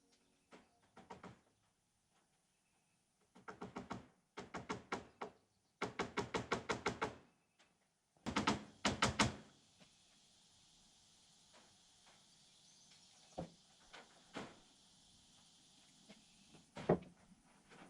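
Rapid runs of sharp knocks, about seven a second, in four bursts, then a few single knocks.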